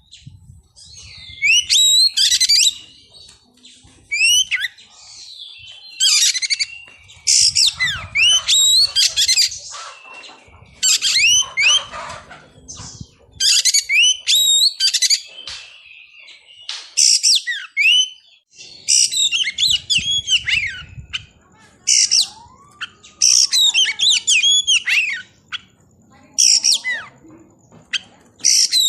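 Oriental magpie-robin singing loudly: phrases of about a second each, made of varied whistles and quick sliding notes, repeated with short pauses.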